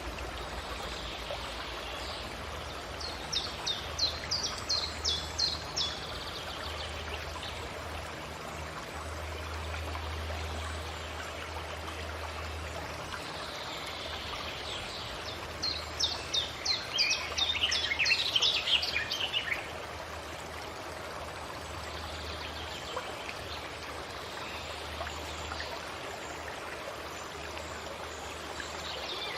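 Forest ambience: a stream running steadily, with a songbird singing twice, a quick run of high notes a few seconds in and a longer, faster song near the middle that drops in pitch as it ends.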